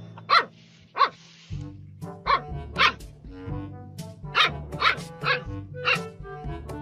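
Puppy yapping: a string of short barks, several in pairs, over background music with a steady low bass line.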